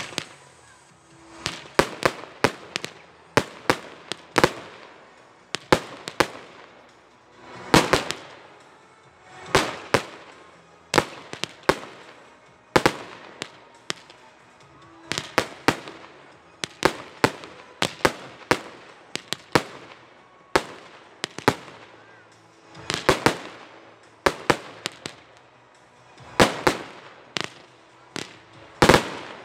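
Weco consumer fireworks bursting in a rapid, irregular series of sharp bangs, at times several a second, each trailing off in a short echo.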